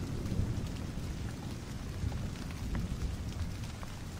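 Steady rain: an even hiss of falling rain with scattered drop ticks over a low rumble.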